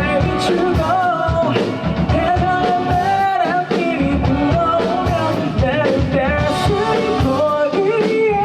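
A male singer singing a pop-rock song with a live band playing behind him, the sung melody continuous over a steady beat.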